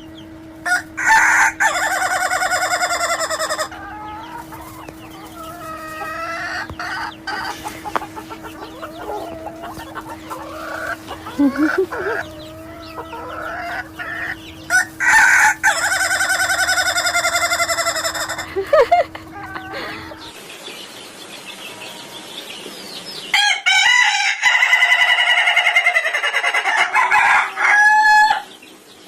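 Ayam ketawa (laughing chicken) roosters crowing: three long crows made of rapid stuttering syllables, one near the start, one about halfway and one toward the end, with shorter chicken and bird calls between them.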